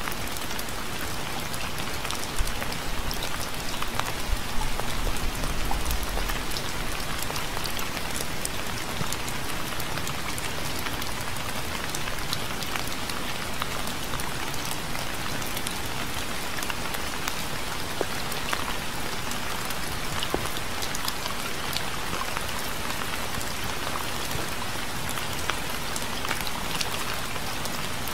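Steady rain falling on a surface, with many separate drops ticking through the hiss. A few seconds in it briefly grows louder with a low rumble.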